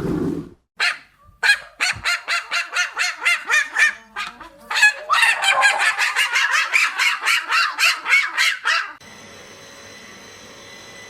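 A bird giving a long series of short, loud calls, about three to four a second, with a brief pause partway through; the calls stop about nine seconds in, leaving a faint steady hiss.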